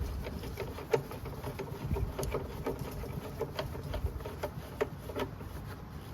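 Echo ES-250 handheld blower's two-stroke engine being turned over slowly on the recoil starter, clicking and scraping with each pull and not firing. The owner blames the scraping on a loose crankshaft.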